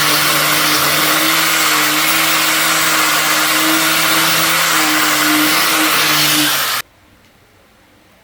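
An electric power tool's motor running steadily with a loud rasping hiss over a low hum, typical of work on a rusty metal part, stopping abruptly about seven seconds in and leaving only a faint hiss.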